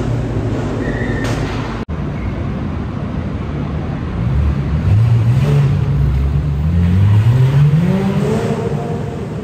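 A car engine accelerating, its pitch climbing, dropping once at a gear change about six seconds in, then climbing again. Before it there is a steady low rumble of engine and road noise, with a brief dropout near two seconds.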